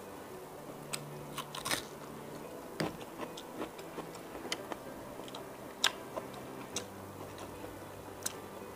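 Close-up eating sounds: a person chewing and biting pasta and grilled chicken, with scattered sharp wet clicks and crunches, two louder ones about three and six seconds in.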